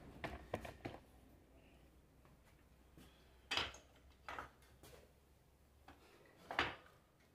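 A few short, separate clunks and knocks of metal parts and tools being handled on a workbench during alternator disassembly, with quiet gaps between them.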